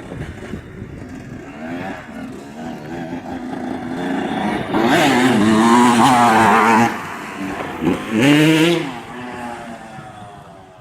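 85cc two-stroke motocross bike engine revving, the pitch rising and falling with the throttle. It grows louder to a peak about five seconds in and holds there for a couple of seconds, gives a second short burst of revs near eight seconds, then fades away.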